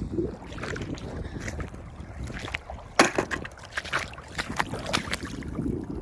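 Wind buffeting the microphone, over irregular sharp clacks and knocks of oyster shells and stones being handled. The loudest knock comes about three seconds in.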